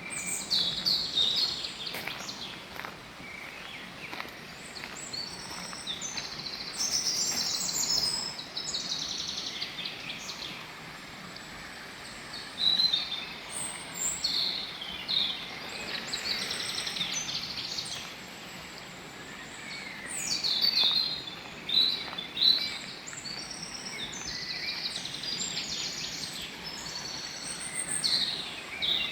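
Several songbirds singing and calling, with many varied chirps and some quick trills, over a faint steady outdoor background noise.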